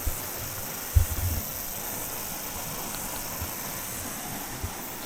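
A steady, high-pitched chorus of cicadas over a faint rushing background. About a second in come a few low thumps on the microphone.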